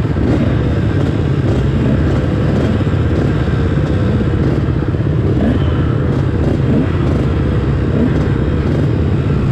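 Motocross bike engines running hard in a race, revving up and down in pitch over a loud, steady rumble.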